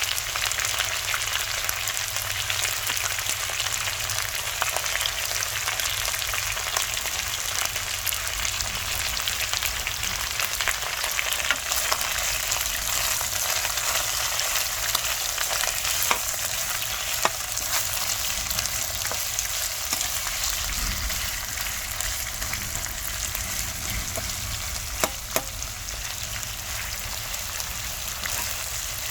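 Chicken frying and sizzling in hot oil in a karahi: a steady sizzle with occasional sharp clicks.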